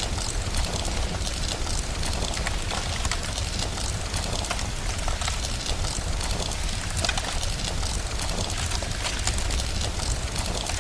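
Steady rain hiss over a continuous low rumble, with scattered small pops and crackles of a wood fire throughout.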